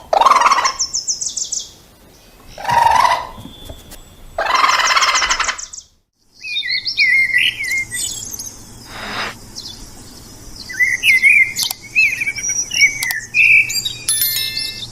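Birds calling: three loud, raspy calls in the first six seconds, then, after a brief silence, a string of short, varied chirps and tweets.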